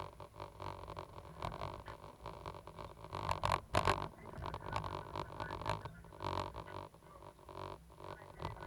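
Cat 320GC excavator's diesel engine running with a low, droning hum that swells and eases as it works, with a few sharper knocks about three and a half seconds in.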